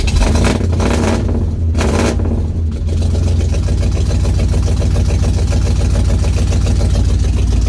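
Square-body Chevrolet Suburban engine just after a cold start: it surges twice in the first few seconds, then settles into a steady, even idle.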